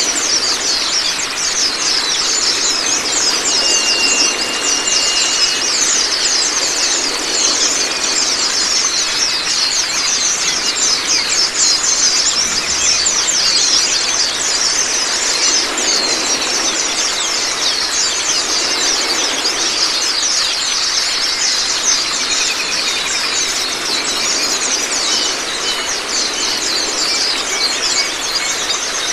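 Running water splashing steadily, overlaid with dense, high-pitched twittering of small songbirds from a masteran birdsong track. A single held whistle sounds about four seconds in.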